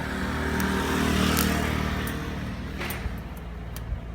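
A motor vehicle's engine runs nearby, its sound swelling to a peak about a second in and then fading, like a vehicle passing. A few light metal clinks come from the fire pit parts being handled.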